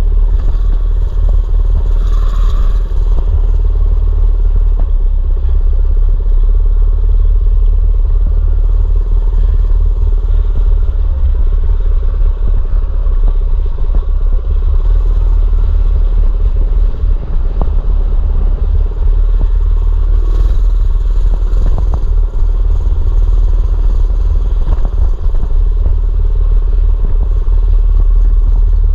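Mini bike's small engine running steadily as it is ridden, under a heavy low rumble, with scattered clatters and rattles.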